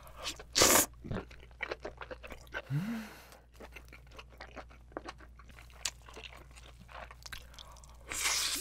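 Close-miked chewing of spicy braised giant abalone: a loud bite about half a second in, then wet, irregular chewing clicks. A short rising "mm" hum comes about three seconds in, and a short hiss near the end.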